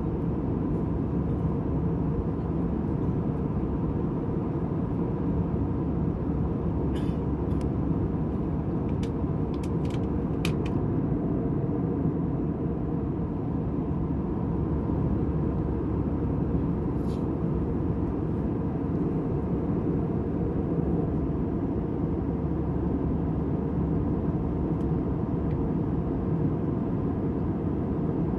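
Steady airliner cabin noise in flight, a monotonous low hum and rush with a faint steady tone above it. A few faint clicks come about a third of the way in and once more past the middle.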